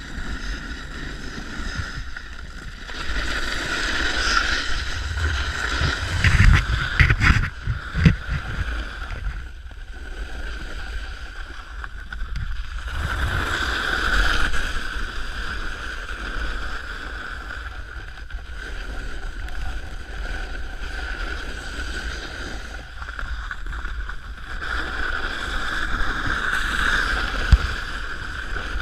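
Snowboard sliding and carving down hard, icy snow: a continuous scraping hiss that swells and fades from turn to turn, with wind buffeting the microphone. A few heavy thumps come about six to eight seconds in.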